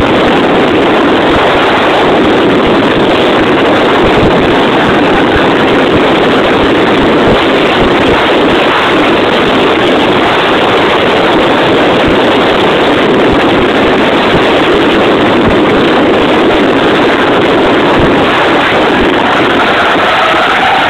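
Mazda RX-8's rotary engine running hard under load, heard from inside the cabin through an overloaded camera microphone as a constant loud, distorted drone.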